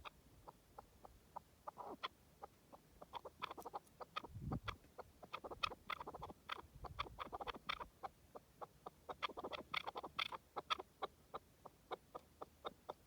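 Partridge calling: a long run of short, sharp clucking notes, several a second. The notes thicken into a dense chattering series in the middle and thin out near the end.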